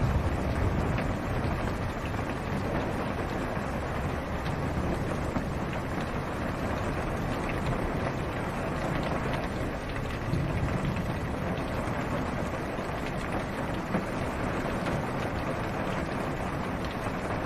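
Rain falling on a car's roof and windshield, heard from inside the car as a steady hiss with scattered drop ticks. A low rumble of distant thunder swells around ten seconds in.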